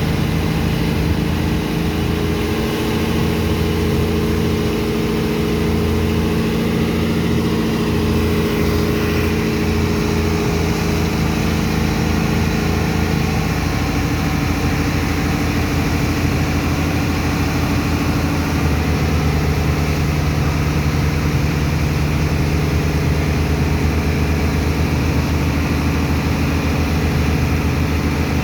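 Heavy engine of a sand-unloading dredge pump running steadily under load, over a steady rushing noise. Its pitch shifts slightly about halfway through and again a few seconds later.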